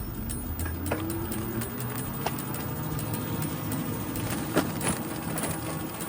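A ridden bicycle's steady mechanical whirring and rattling, with a pitch that rises over the first second or so and scattered clicks and ticks. This is the annoying bike noise that the rider found how to fix after this ride.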